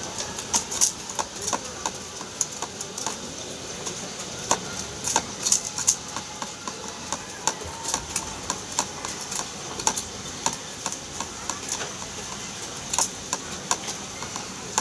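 Pigeons pecking at brick powder: quick, irregular taps of beaks on a hard surface, several a second.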